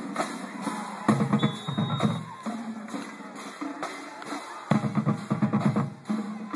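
Drums beating a cadence, with deep bass-drum thumps and sharp snare hits over a steady background din.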